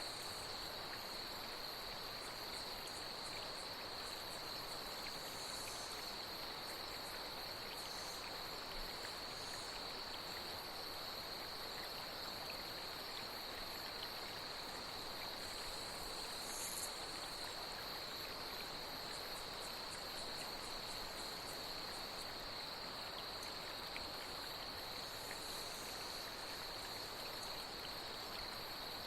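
Night insects trilling in one steady high note over a steady wash of flowing water, with a short, higher buzz now and then.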